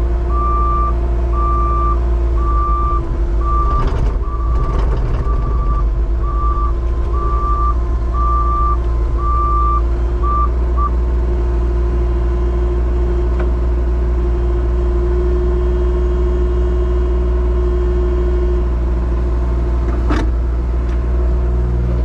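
Backup alarm beeping about once a second over a truck engine running steadily; the beeping stops about halfway through. A sharp knock comes near the end.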